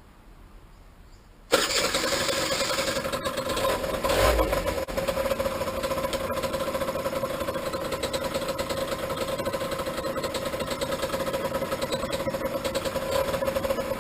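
Small vehicle engine starting about a second and a half in, revving briefly a few seconds later, then idling steadily.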